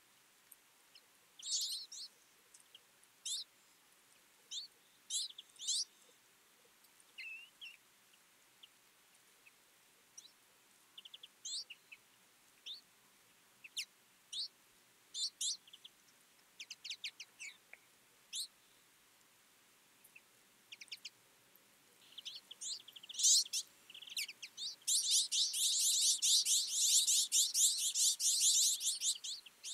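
Twite flock calling: short, high twittering calls scattered at first, then near the end a dense chatter of many birds calling at once for several seconds.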